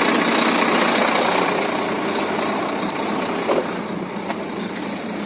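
Heavy truck's diesel engine running, a steady hum that slowly eases off in level, with a few faint clicks.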